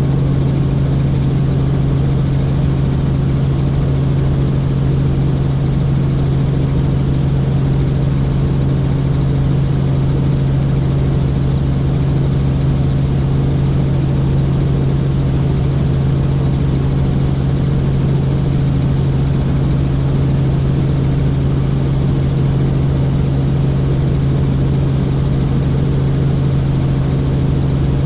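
Helicopter in flight: a loud, steady, unchanging drone with a strong low hum.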